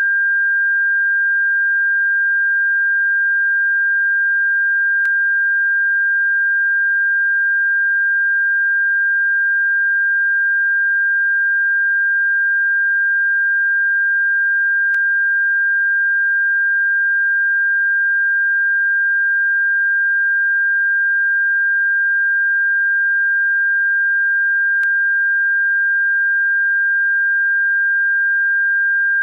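Synthesized bird-repellent tone: a single steady, high-pitched pure tone held at one pitch and one loudness, with three faint clicks about ten seconds apart.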